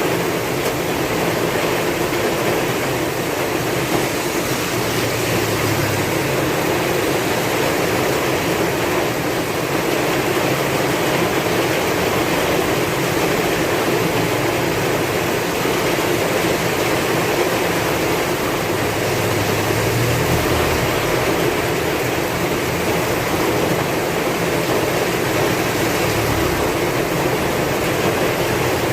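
Heavy rain falling steadily with strong wind, a dense, even hiss with a low rumble of wind gusting at times.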